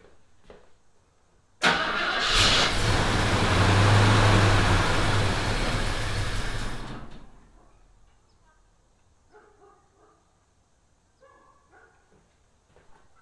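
1974 AMC Javelin's engine being started: it turns over and runs for about five seconds, then fades out and dies. The engine is short of fuel because its mechanical fuel pump is not pumping; the pump's diaphragm is blown.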